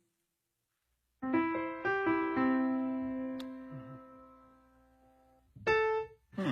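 Piano playing a few notes in quick succession that build into a held chord, which rings on and slowly fades. A short, separate pitched sound comes near the end.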